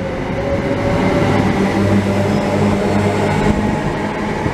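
British Rail Class 317 electric multiple unit pulling out, its motors humming over a rumble of wheels on rail. The sound builds over the first second, then holds steady.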